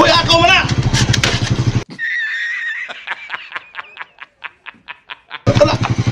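Idling single-cylinder 150 cc motorcycle engine with a man shouting over it. About two seconds in, the sound cuts off abruptly to an added comic sound effect: a wavering whistle-like tone, then a run of quick light ticks, about five a second. The idling engine cuts back in near the end.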